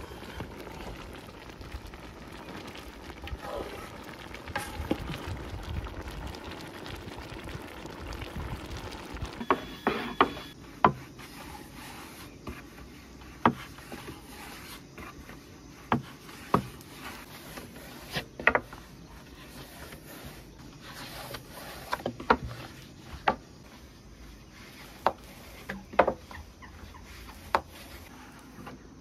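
A long wooden rolling pin knocking sharply against a wooden board as a thin sheet of dough is rolled out, a loud knock every second or two. Before the knocks start, about nine seconds in, there is a low steady noise.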